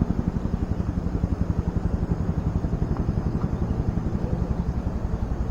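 An engine running at idle, a steady rapid low throb that starts abruptly.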